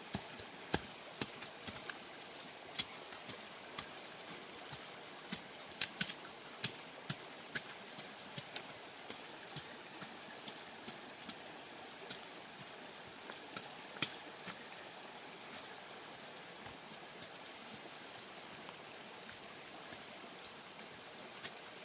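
Scattered sharp clicks and knocks, several a second at times and thinning out after about eight seconds. They sit over a steady high-pitched outdoor drone and hiss, typical of insects and running water.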